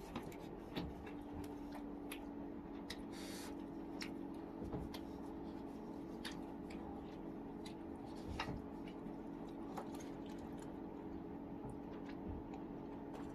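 Close-up eating sounds: wet squishing and chewing of steamed chicken with small scattered clicks, over a steady low hum.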